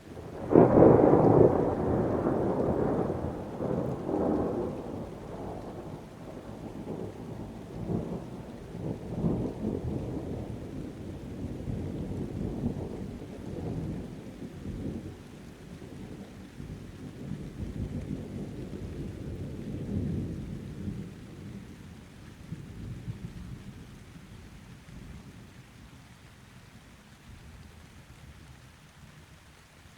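A thunderclap breaks suddenly about half a second in, then rumbles on and slowly dies away over some twenty seconds. Rain patters faintly underneath.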